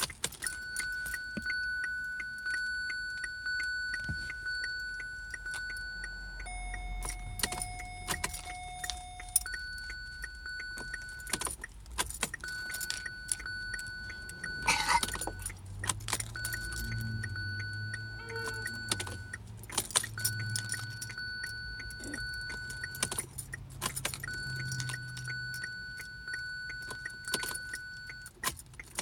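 Keys jingling and irregular clicking inside a car, over a steady high electronic warning tone that switches on and off in long stretches. A lower tone replaces it for a few seconds early on, and a low hum runs through the middle.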